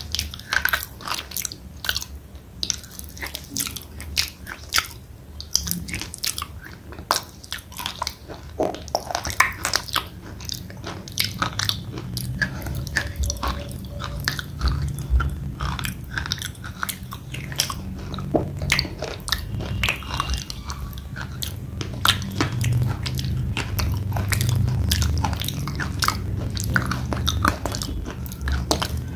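Close-up chewing of a thick slate pencil: a steady stream of sharp crunches and cracks as the brittle slate is ground between the teeth, with a low muffled rumble under them in the second half.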